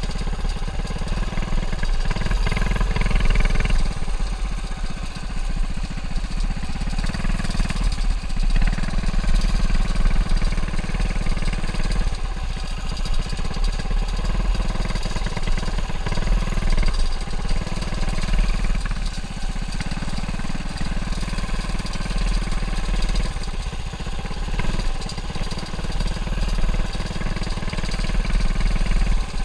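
Lil' Rascal mini bike's small engine running as the bike is ridden, its loudness rising and dipping every few seconds as the throttle is opened and eased through the turns.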